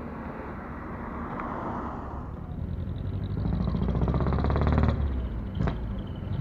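Engine of a modified bosozoku-style Japanese car running and revving as it rolls out, growing louder through the second half, with one short sharp crack near the end.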